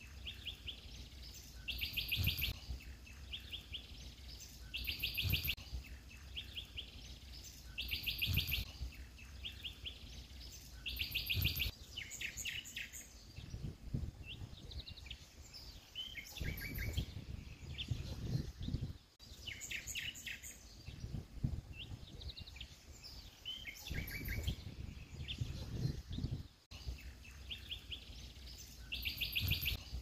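Songbirds singing in bushes: one bird repeats a short, fast trill every few seconds, with other chirps and short calls in between.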